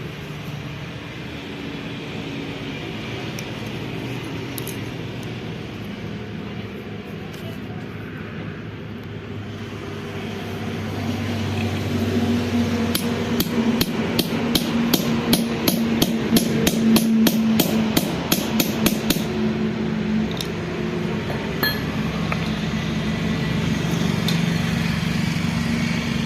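Quick run of about twenty sharp hammer strikes on metal, roughly three or four a second, tapping a part into the Massey Ferguson tractor gearbox to seat it. A steady low hum runs underneath.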